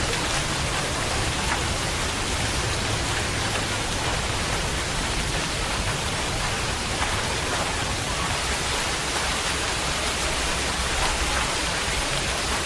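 Steady rain falling, an even, unbroken hiss with no separate drops or events standing out.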